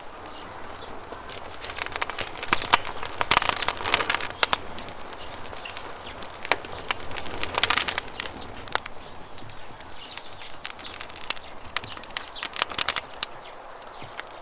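Campfire wood crackling and popping: sharp snaps, irregular and bunched into dense flurries, over the steady rush of running river water.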